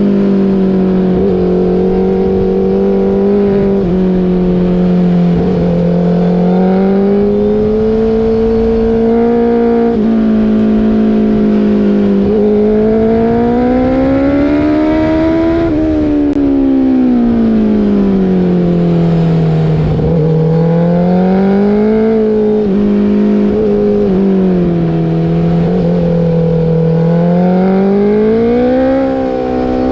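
Motorcycle engine running under way, its pitch rising and falling slowly as the throttle is opened and eased, over a steady rushing noise.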